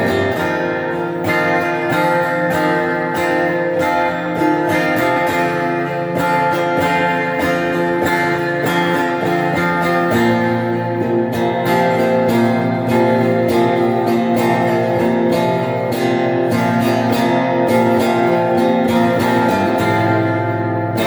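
Electric guitar played through a Crate amplifier with reverb, strumming chords steadily, with a change of chord shape about ten seconds in.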